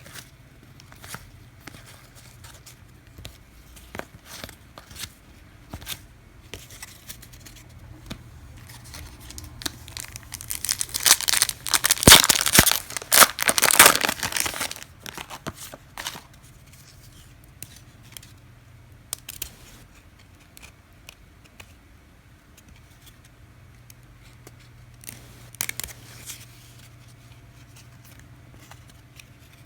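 A trading card pack wrapper being torn open and crinkled, loudest for a few seconds starting about ten seconds in. Scattered light clicks of cards being handled come before and after it.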